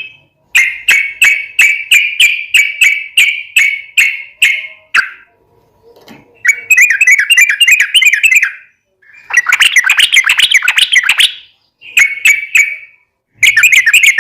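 Yellow-vented bulbul (trucukan) singing long, fast chattering phrases of repeated notes, about three or four a second. The song comes in several bursts of a few seconds each, with short pauses between them.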